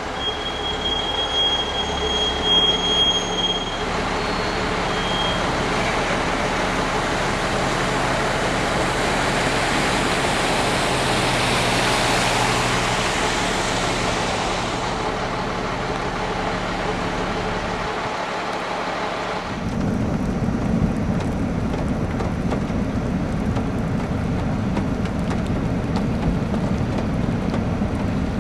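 A car driving through flood water on a roadway, its tyres throwing up a hissing spray that swells and fades over about ten seconds. About two-thirds of the way in, a steady low rumble takes over.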